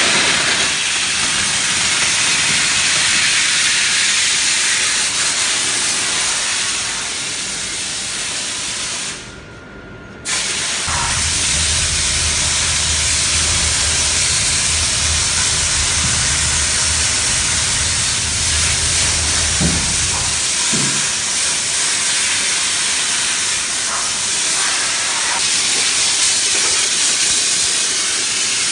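Steam car-wash machine's spray wand hissing steadily as steam is blasted onto the car, cutting out for about a second around nine seconds in and then starting again.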